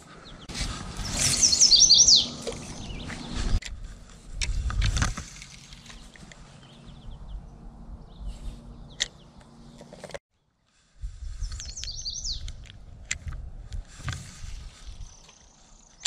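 A songbird sings a short run of quick, high, stepping notes about a second in, and again near twelve seconds. Underneath are low rumbles and a few sharp clicks, and the sound drops out completely for about a second just past ten seconds.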